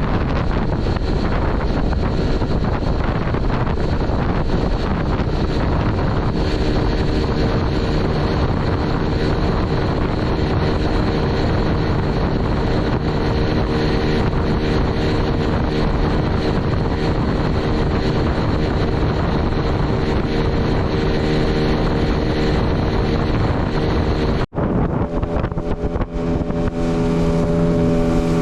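Tarpon 9.9 outboard motor running steadily under way, pushing an inflatable boat, with heavy wind buffeting on the microphone and the rush of water. The sound breaks off for an instant about 24 seconds in and resumes with the engine note slightly changed.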